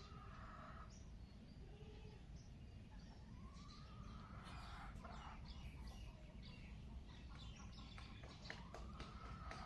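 Faint birds chirping in the early morning, with three longer calls that rise and arch, over a steady low rumble.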